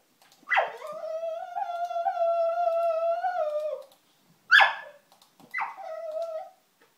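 Cocker spaniel–pug cross (Cockermops) dog whining: one long whine of about three seconds, then a short, sharp yelp, the loudest sound, then a shorter whine.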